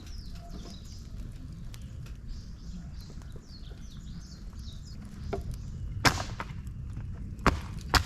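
Wood fire of dried bamboo, branches and leaves burning in a fire stand, with a steady low rumble and three sharp cracks in the last couple of seconds, the first the loudest. Small birds chirp over it during the first few seconds.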